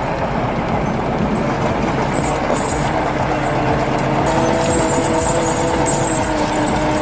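Heavy vehicle engine running hard under load, with a steady whine joining about four seconds in.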